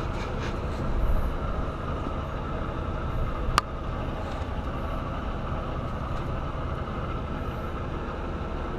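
Diesel semi-truck engine idling steadily at operating temperature, heard from the open hood. One sharp click about three and a half seconds in.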